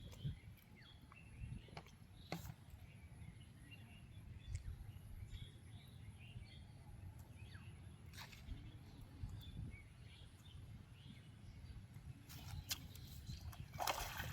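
Faint outdoor ambience: a steady low rumble with scattered small bird chirps and a few sharp clicks, the clicks coming closer together near the end.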